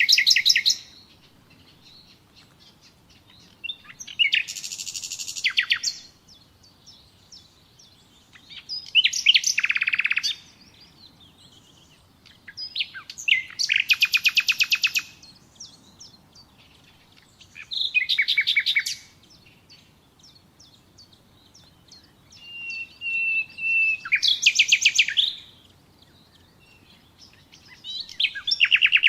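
Common nightingale singing: separate song phrases every four or five seconds, each a fast run of repeated notes and trills, one opening with a long steady whistle before breaking into a rapid trill.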